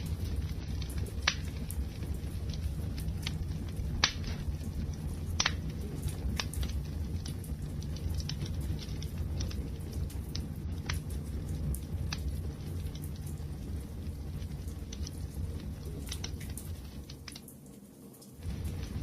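Wood fire burning: a steady low rumble of flames with scattered sharp crackles and pops. The sound dips away briefly near the end, then returns.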